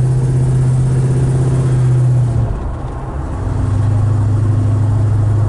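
A 1982 El Camino's Chevrolet crate V8, exhausting through FlowMaster mufflers, drones steadily while driving, heard inside the cabin. About halfway through the engine note falls away, then comes back a second later at a slightly lower pitch.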